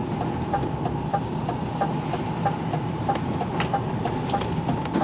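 Steady engine and road noise inside a moving truck's cab, with a regular ticking about three times a second, typical of the turn indicator flashing for a turn at a roundabout.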